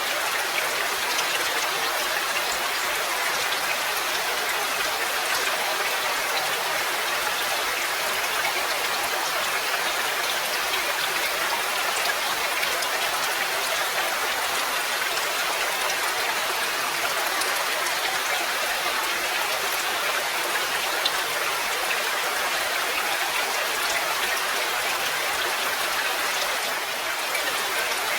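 Steady rain: a dense, even hiss with fine drop ticks scattered through it.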